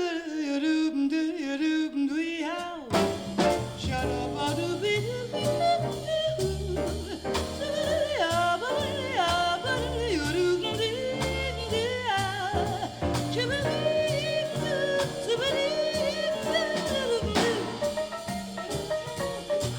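Swing jazz vocal recording played back through ATC SCM20 studio monitor loudspeakers and picked up by a microphone in the room. A held, wavering sung note ends about three seconds in, then the band carries on with a walking bass and a wavering melodic lead line over drums.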